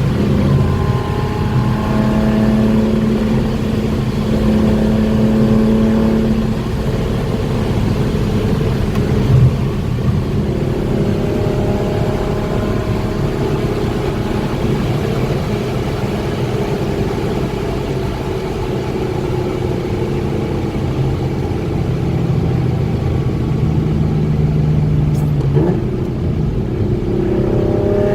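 BMW E36 325i's 2.5-litre straight-six engine running, its pitch rising and falling gently as engine speed changes. A single sharp click sounds near the end.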